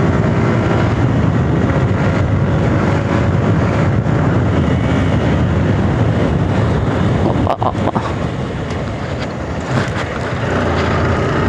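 Suzuki Gixxer motorcycle running at speed in third gear, about 70 km/h, with heavy wind rush over the microphone. There is a brief dip in the sound about two-thirds of the way through.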